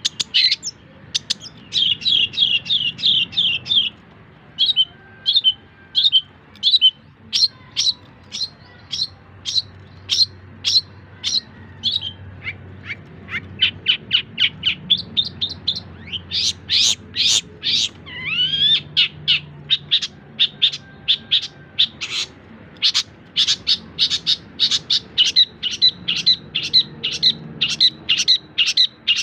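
Long-tailed shrike (cendet) singing a fast, varied song: runs of rapid repeated chirps and trills, with a couple of rising whistled notes about two-thirds of the way through.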